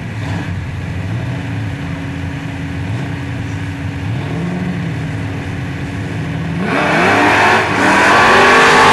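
Car engine idling with a few light blips of the throttle, then about two-thirds of the way in a car launches hard, its engine revving up loudly with rising pitch.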